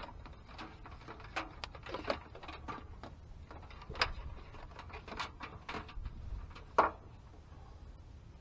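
Hands working on ignition parts and wiring: scattered light clicks and knocks, with one louder knock a little before seven seconds in.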